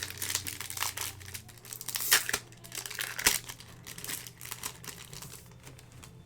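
Foil booster pack wrapper crinkling and tearing in a string of sharp crackles, loudest about two and three seconds in.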